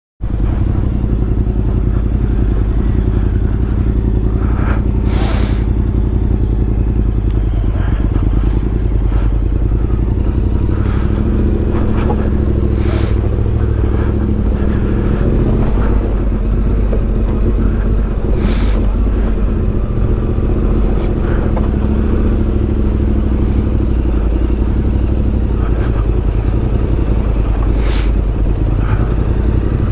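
Adventure motorcycle's engine running steadily while riding, with a few short sharp rattles or scrapes spread through.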